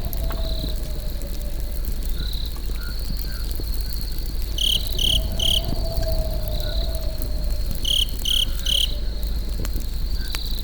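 Crickets chirping: a steady high trill, with two sets of three louder, sharper chirps, over the low steady rush and faint scattered crackle of a campfire.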